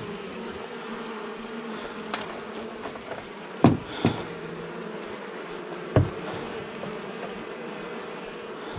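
Steady buzzing hum of a disturbed honey bee colony exposed in a wall cavity, broken by three short sharp knocks about a third and two-thirds of the way in.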